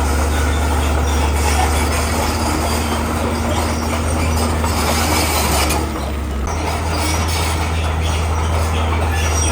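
Komatsu crawler bulldozer at work: its diesel engine runs with a steady low drone under the metallic squeal and clatter of the steel tracks. The sound dips briefly about six seconds in, then picks back up.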